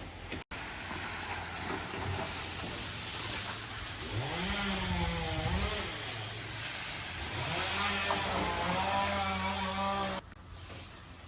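An engine speeding up and holding its speed, easing off, then speeding up and holding again, over steady rushing noise; it cuts off suddenly near the end.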